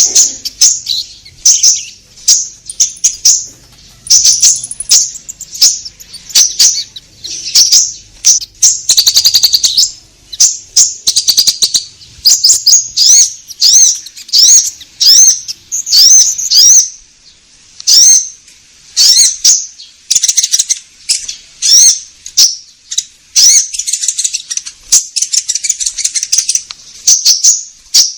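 Konin bird song: loud, high-pitched chirping notes repeated rapidly in bursts with short pauses, a lure call played to draw in konin birds.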